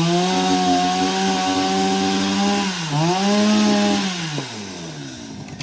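Chainsaw running at high revs, cutting wood. Its pitch dips briefly under load about three seconds in, then recovers. Near the end the throttle is let off and the engine winds down toward idle.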